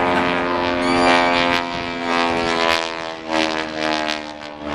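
Propeller aerobatic plane's engine droning steadily as it flies through a dive, its loudness dipping briefly in the second half.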